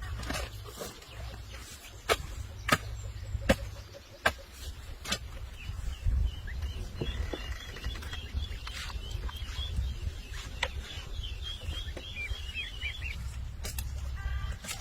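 Small bird chirping in a rapid run of short notes for several seconds, starting about six seconds in, over a steady low rumble. Several sharp clicks or knocks sound through the first half.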